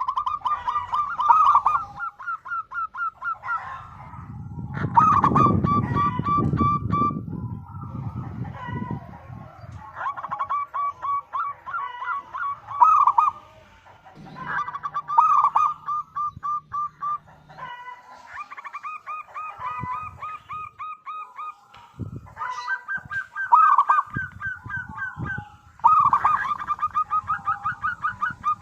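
Zebra dove (perkutut) cooing: repeated phrases of rapid, short high coos, each phrase a quick run of notes. A low rumble comes in from about four to nine seconds in.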